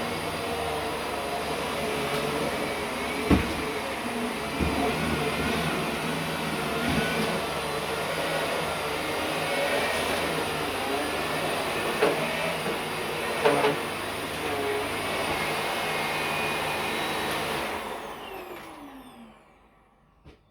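Vacuum cleaner running steadily, with a few sharp knocks along the way. Near the end it is switched off and its motor winds down, falling in pitch to silence.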